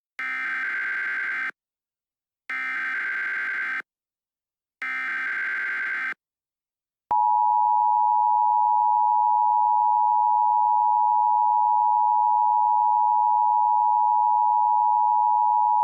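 Emergency Alert System header tones: three short bursts of buzzy SAME digital data, about a second apart. About seven seconds in comes the steady two-tone EAS attention signal (853 and 960 Hz played together).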